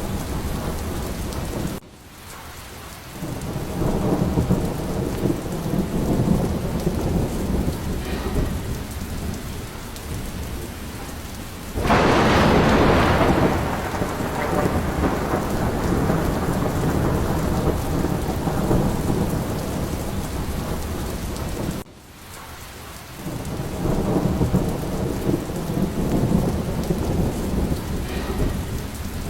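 Steady heavy rain with rolling thunder rumbling underneath. A loud thunderclap breaks about twelve seconds in and fades slowly. Twice the sound drops away suddenly and swells back.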